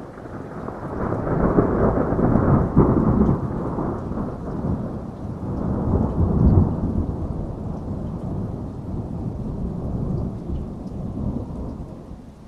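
A long roll of thunder rumbling over steady heavy rain: it swells over the first two seconds, peaks twice, and dies away near the end.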